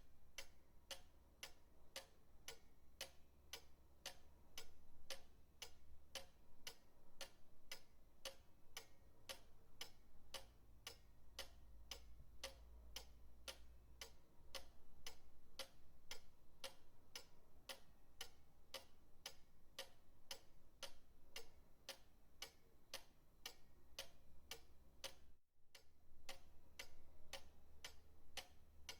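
Pendulum clock ticking steadily, about three sharp ticks a second, with a faint low hum beneath.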